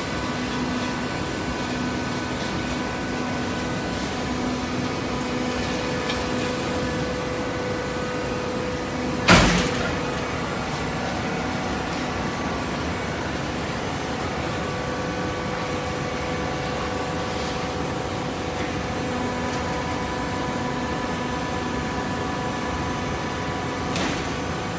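Hydraulic cardboard baler running with a steady machine hum, broken by one sharp bang about nine seconds in and a smaller knock near the end.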